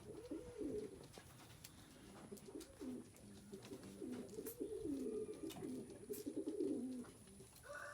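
Racing pigeons cooing, several low coos one after another and overlapping, with a few faint clicks.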